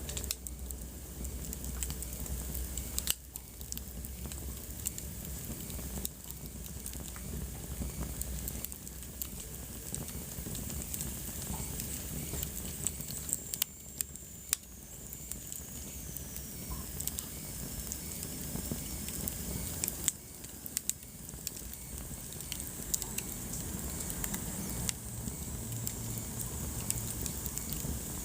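Wood fire burning in a fireplace, crackling and popping steadily with irregular sharp snaps over a soft low rumble. Midway, a faint high whistle slides down in pitch.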